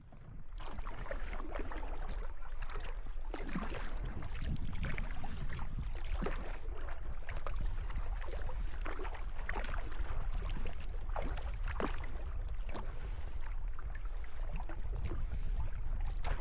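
Water splashing and sloshing around a kayak as it is paddled, with irregular splashes several times a second over a steady low rumble.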